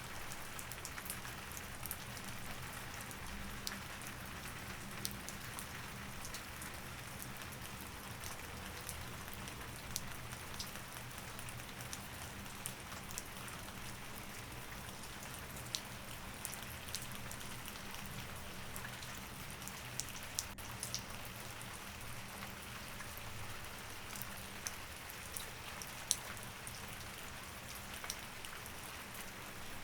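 Steady rain, with scattered sharp taps of single drops, over a faint low steady hum.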